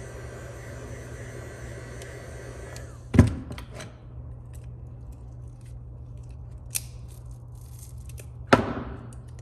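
A steady hiss of blowing air cuts off about three seconds in. Then comes a sharp knock on the repair bench, a small click, and a second sharp knock near the end, as tools or phone parts are handled during battery removal.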